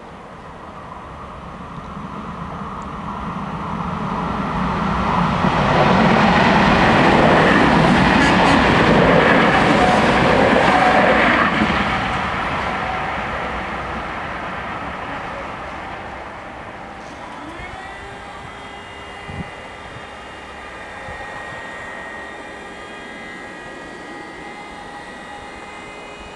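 A train passing the level crossing: its rumble builds to its loudest about six to twelve seconds in, then fades away. About seventeen seconds in, the barrier drive motors start with a short rising whine and then hum steadily as the crossing barriers lift.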